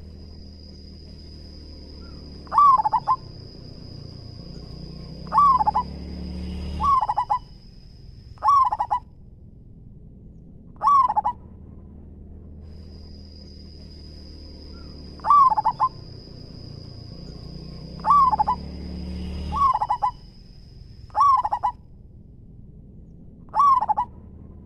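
Zebra dove cooing: short, loud coo phrases repeated about ten times, a second or few apart. Behind them runs a steady high-pitched whine that stops for a few seconds and then returns, with a low hum underneath.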